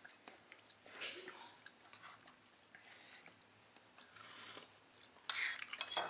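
Close-up chewing of fried instant noodles in short, irregular spells, with light clicks of forks against plates; the loudest spell comes near the end.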